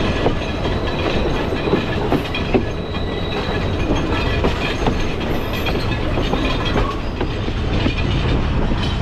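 Running noise of a Sri Lanka Railways passenger train, heard from outside an open carriage window: a steady rumble of wheels on the rails with a few scattered clicks.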